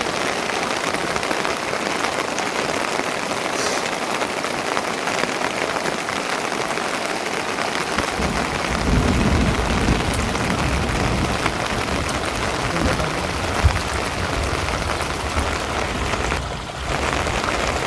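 Steady rain falling, an even hiss. From about halfway through a low rumble joins it, and there is one sharp click a few seconds before the end.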